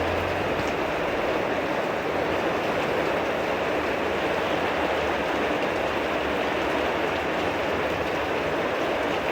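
Heavy thunderstorm downpour: a steady, even rush of hard rain.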